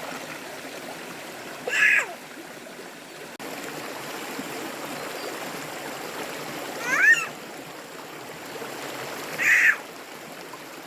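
Three short, high animal calls, each sweeping in pitch, about 2, 7 and 9.5 seconds in, over a steady rush of running water.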